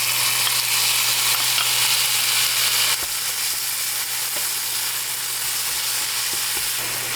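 Shrimp, tomato, garlic and onion frying in oil in a pan: a steady sizzle that eases a little about three seconds in.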